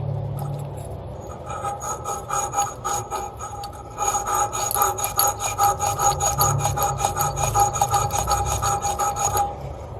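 Copper pipe being scrubbed clean by hand with an abrasive before soldering: fast, even rubbing strokes that get louder about four seconds in and stop near the end.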